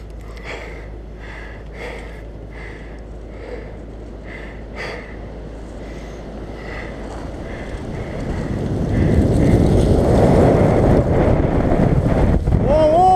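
Wind rushing over the microphone while riding a mountain bike along a trail, with tyre rolling noise. The wind grows much louder from about two-thirds of the way in as the bike picks up speed.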